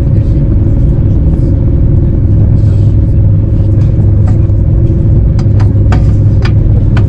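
Loud, steady low rumble of a train running at speed, heard from inside the carriage, with a constant hum. A few sharp clicks come in the second half.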